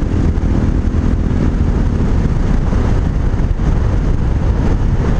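RPS Hawk 250 dual-sport motorcycle being ridden: its single-cylinder engine runs steadily through an aftermarket exhaust, with heavy wind rumble on the microphone.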